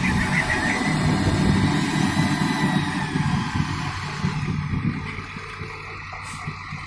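Vehicle engine running with a low rumble and a faint high whine above it, louder for the first few seconds and then easing off.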